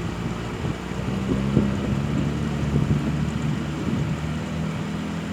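An engine running steadily with a low hum, under a rushing noise like wind on the microphone.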